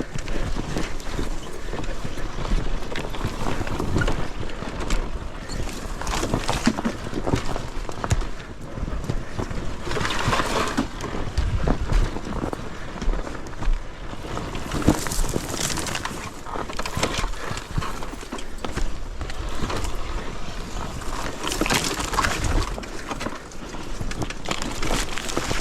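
Enduro dirt bike ridden over rocky ground: irregular clattering and knocks over a steady rush of noise.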